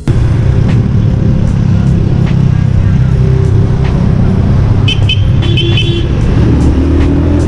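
Motorcycle riding on the road: a loud, steady mix of engine and wind noise on the microphone. A few short high-pitched beeps come about five seconds in, and the engine pitch rises near the end as the bike accelerates.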